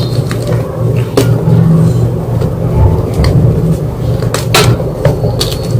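White gym chalk paste being crushed, giving scattered sharp crunches, the loudest a pair about four and a half seconds in, over a steady low hum.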